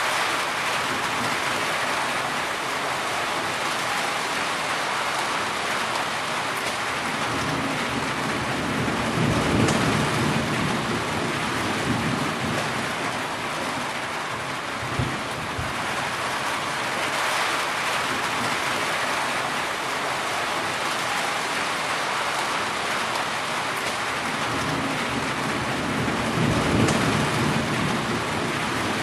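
Heavy rain falling steadily, with low rumbles of thunder about nine seconds in and again near the end.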